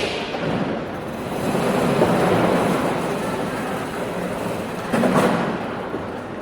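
Airliner cabin noise heard by a window seat: a steady rushing rumble that swells about two seconds in, with a short sharp jolt or rattle about five seconds in.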